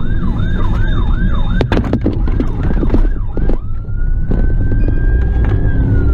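Police car siren in fast yelp mode, about three rising-and-falling sweeps a second, then switching a little past halfway to one long drawn-out tone that starts to fall near the end. Heavy engine and road noise from the pursuing car runs underneath, with a few sharp knocks about two seconds in.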